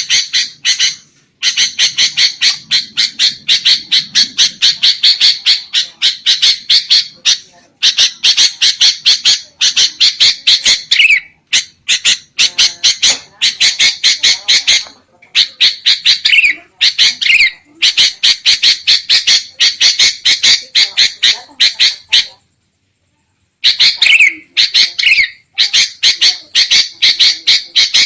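Sooty-headed bulbuls (kutilang) giving rapid, harsh chattering calls, about five sharp notes a second in runs of several seconds, with a short break about 22 seconds in. This is the agitated 'ribut' (noisy, alarm) calling used as a lure to draw wild bulbuls.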